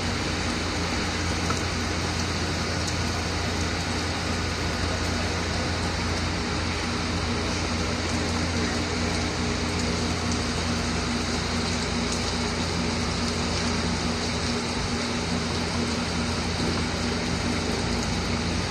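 Steady rain falling as an even, constant hiss, with a low steady hum underneath.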